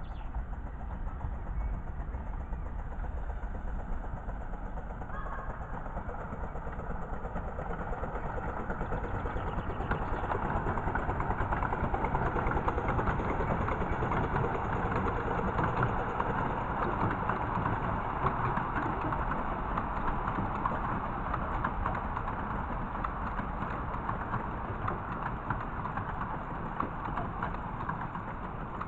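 A miniature railway train running: a steady mechanical rumble with fast, fine clatter, growing louder from about ten seconds in.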